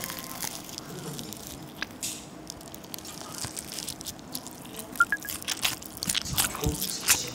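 Crisp honey-glazed fried chicken being bitten and chewed close to a microphone, ASMR-style: a run of short crunches that come thicker in the second half.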